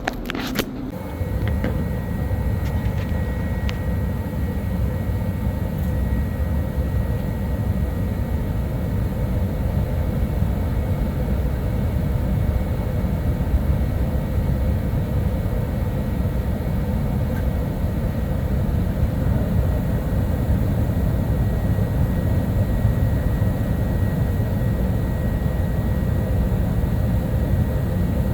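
Twinned Carrier gas furnaces firing after a restart: a steady low rush of burner flame and blower air that comes up about a second in, after a few clicks, with a faint high steady tone over it.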